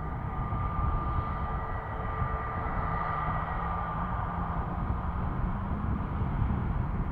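Aircraft engine noise: a steady high whine over a low rumble, the whine fading out about halfway through.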